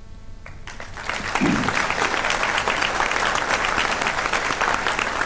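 Audience applauding, building up about a second in and carrying on steadily.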